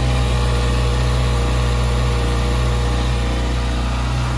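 Bone-stock Kawasaki ZX-6R 636 inline-four with its stock exhaust, idling steadily.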